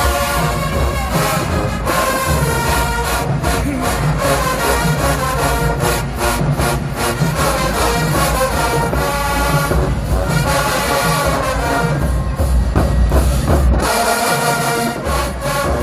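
HBCU marching band playing loudly, with a brass section over a steady drumline. The low bass drops out briefly near the end.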